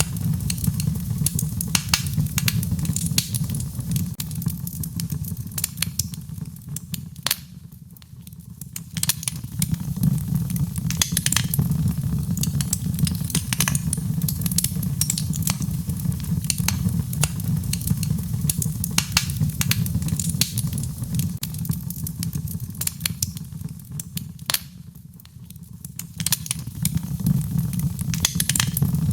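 Wood fire crackling, with frequent sharp pops and snaps over a steady low rumble; the crackle thins out briefly twice, about a third of the way in and near the end.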